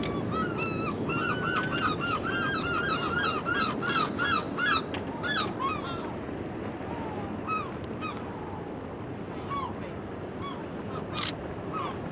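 A flock of birds calling: many short, overlapping calls, thickest in the first half and thinning to scattered single calls, over a steady low rumble.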